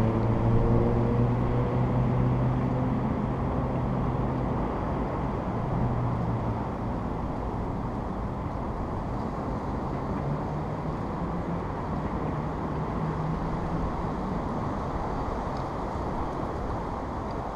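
Suzuki GSR750's inline-four through a Scorpion aftermarket exhaust, fading away just after passing by: its engine note sinks and dies out over the first few seconds. A steady outdoor rush of road and wind noise follows, with a faint engine hum about ten seconds in.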